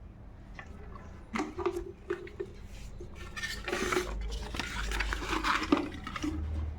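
Electric kettle and its packaging being handled: scattered light clicks and knocks, with a stretch of rustling in the middle.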